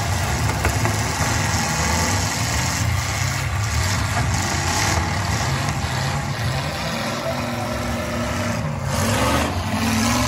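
Engines of several demolition derby cars running together in a steady, loud drone.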